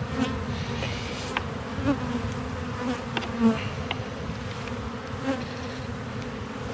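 Honeybees buzzing around an opened hive during an inspection: a steady hum of the colony, with single bees droning close past now and then, and a few light clicks.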